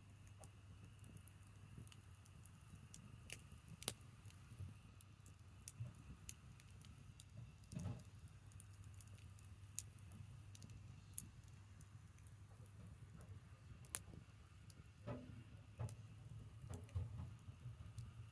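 Branch campfire crackling quietly, with scattered sharp pops, the loudest about four seconds in and near fourteen seconds, over a low steady hum.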